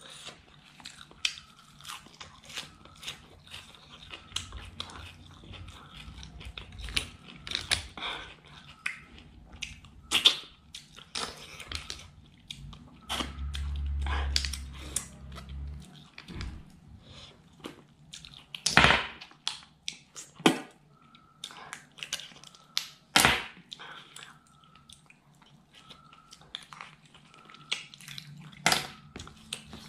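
Close-miked chewing and wet mouth smacks of someone eating clam curry and rice by hand, with many quick clicks and a few louder sharp ones. A low rumble runs for a few seconds midway.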